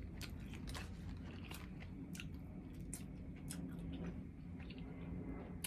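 A person chewing food close to the microphone, with scattered crunches and wet mouth clicks.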